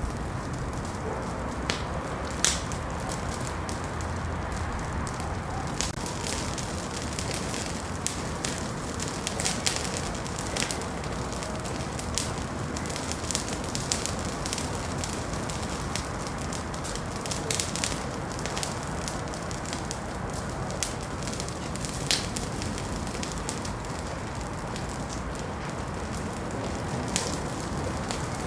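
Wood fire crackling in a fireplace: a steady hiss broken by many irregular sharp pops and snaps.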